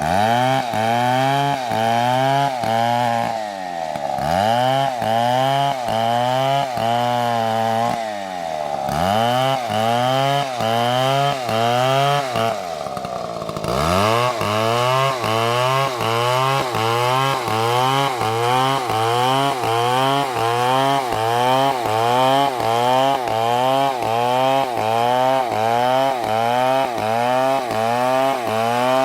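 Chainsaw engine running under load while cutting into a large tree. Its pitch rises and falls in a steady rhythm of about twice a second, and sags deeper at about 4, 9 and 14 seconds in.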